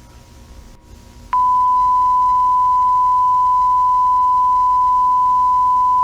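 A loud, steady electronic beep, a single pure pitch that comes on abruptly about a second in and holds unchanged for around five seconds before cutting off sharply, played in the soundtrack of an analog-horror video.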